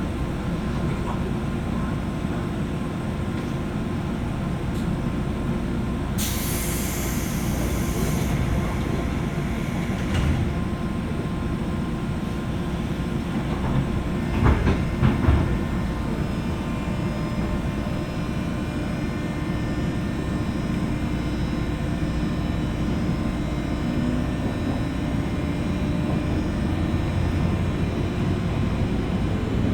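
Running noise inside a JR West 201 series electric train's motor car, heard from above the armature chopper: a steady rumble of wheels and traction motors with faint steady whining tones. A burst of hiss lasts about two seconds from about six seconds in, and a quick run of knocks from the wheels over rail joints comes about halfway through.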